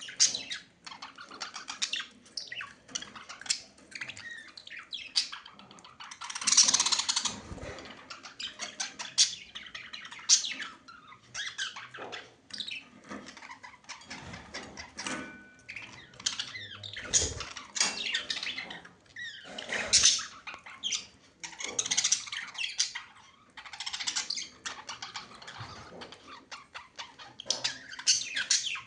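Budgerigars chattering with a continuous run of quick chirps and warbles, broken now and then by louder squawks.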